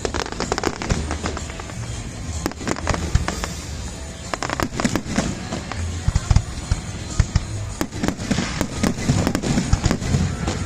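Fireworks going off in a rapid, irregular series of sharp bangs and crackles, thickest in the second half. Music with a heavy bass beat plays underneath.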